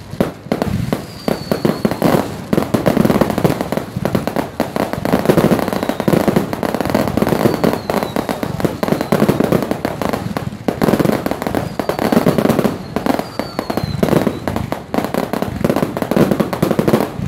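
Fireworks display going off in a dense, continuous barrage of bangs and crackles, with a few faint short falling whistles.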